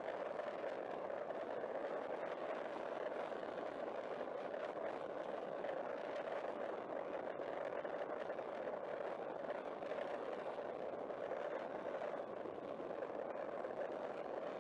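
Muffled, steady wind and road noise from a Benelli Zafferano 250cc maxiscooter on the move, with no clear engine note.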